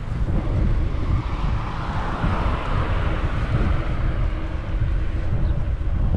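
Wind buffeting the microphone with a steady low rumble. A broad rushing sound swells and fades, loudest about two and a half seconds in, like a vehicle passing.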